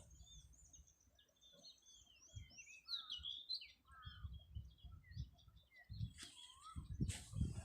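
Small birds chirping and twittering, a busy run of short, quick high notes that rise and fall. Low dull thumps sound underneath, and a rustle comes near the end.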